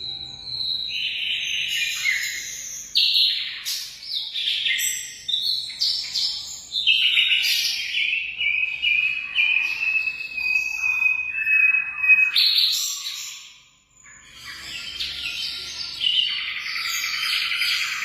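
Emprit (munia) singing: a run of varied high chirps and trills. The middle of the song is a long, slightly falling whistle, and a brief pause about three-quarters of the way through is followed by dense, busy chirping.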